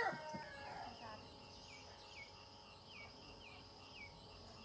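Faint rural ambience: a steady high insect drone, with a short falling chirp repeated about twice a second from midway on.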